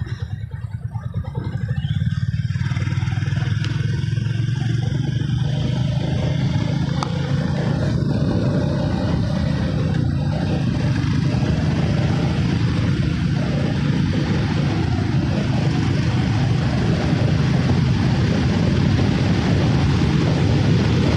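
Motorcycle underway on the road: engine running with a steady rush of wind and road noise, growing louder over the first couple of seconds and then holding steady.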